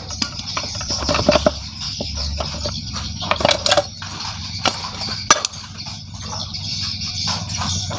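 Metal parts and tools of a Yamaha 100 motorcycle engine being dismantled, clinking and knocking against each other in scattered sharp strikes, a couple of quick clusters followed by single knocks.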